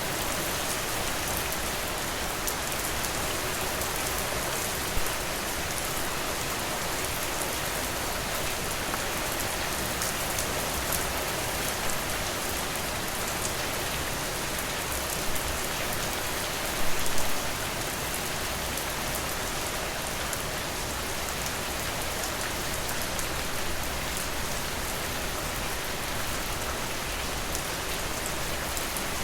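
Steady rain falling, an even hiss with individual drops tapping now and then. A short cluster of louder taps comes a little past halfway.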